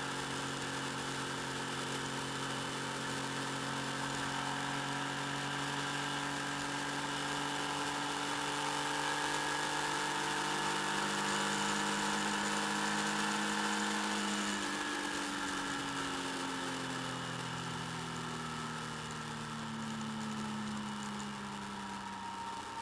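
Motorcycle engine running while riding, picked up by a bike-mounted camera microphone together with a steady hiss. The engine note holds steady, then falls gradually over the second half as the bike slows.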